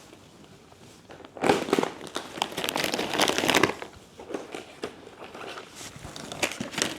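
Snack packaging being handled and crinkled: after a quiet start, a burst of loud crackling begins about a second and a half in and lasts a couple of seconds, then lighter, scattered crinkles.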